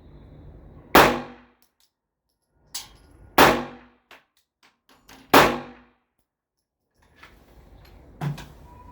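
Three gunshots from a Glock pistol mounted in a Fab Defense Roni carbine conversion kit, about two seconds apart, each with a short ringing tail, and a fainter knock near the end.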